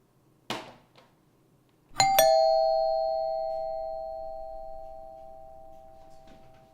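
Two-note doorbell chime: a ding-dong struck twice in quick succession, both tones ringing on and fading slowly. A brief noise comes shortly before it.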